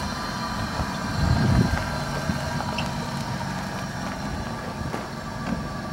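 2000 Dodge Caravan minivan's engine idling steadily, with a brief low rumble about a second in.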